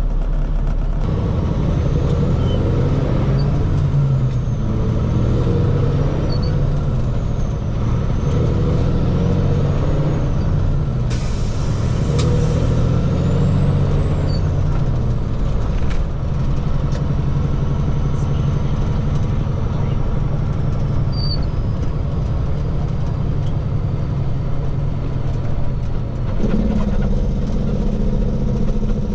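Diesel engine of a water truck running while driving, its pitch rising and falling through the first ten seconds or so, then steadier. A short hiss of air sounds about eleven seconds in.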